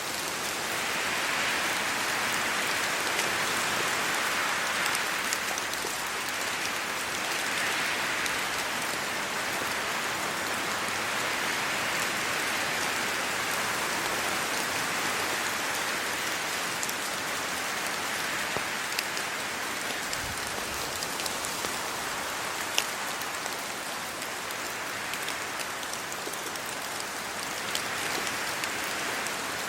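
Steady rain falling on leaves and the ground, with scattered sharp drop ticks. Wind through the trees makes the wash swell and ease every few seconds.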